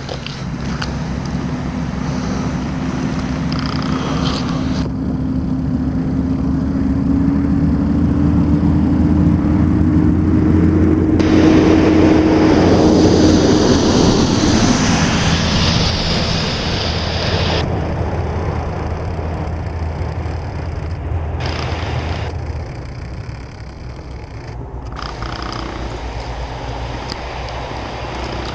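A motor vehicle going by on a snowy road. Its engine note rises slowly as it nears, and it is loudest about twelve to sixteen seconds in, with a hiss of tyres in the snow, before it fades away.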